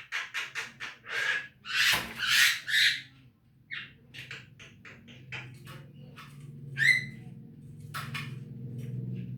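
Javan myna (jalak kebo) calling: a quick run of short calls, loudest about two seconds in, then scattered short notes and a single whistled note near the end. A steady low hum runs underneath from about halfway.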